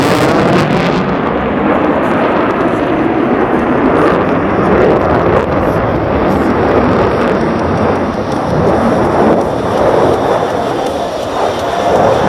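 Jet noise from an F-22 Raptor's two Pratt & Whitney F119 afterburning turbofans during its flying display: a loud, continuous rumble that swells and eases slowly.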